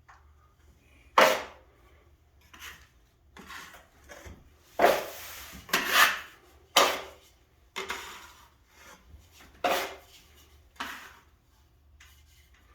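Hand sanding of dried drywall topping compound: about a dozen irregular scratchy rubbing strokes, some short and sharp, one longer about five seconds in, with brief pauses between them.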